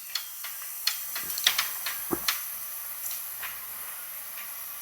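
Small plastic clicks and ticks of blade fuses being handled, pulled and pushed into a truck's fuse block, mostly in the first half, over a steady hiss.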